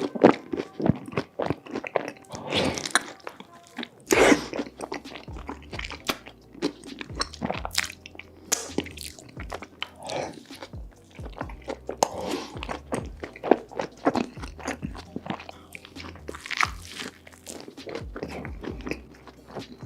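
Close-miked crunching and chewing: a person biting into and eating crunchy food with loud, irregular crackles and mouth sounds, over background music with a steady bass line that comes in about four seconds in.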